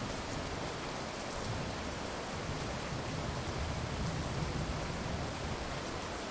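Steady heavy rain, with a low rumble of distant thunder that builds through the middle and fades away near the end.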